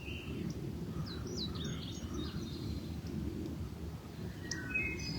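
Songbirds singing: a quick run of short, high downslurred chirps about a second in, and a few more notes near the end, over a steady low background noise.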